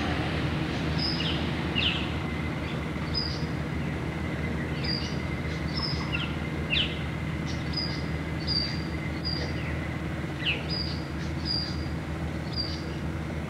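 Birds calling repeatedly: short high chirps about every second, with a few quick falling calls, over a steady low rumble.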